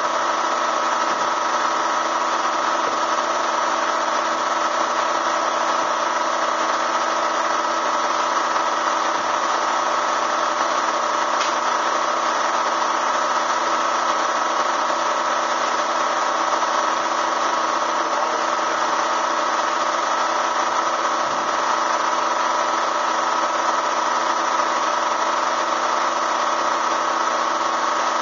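Bee vacuum running, its motor giving a steady, unbroken drone with a constant pitch.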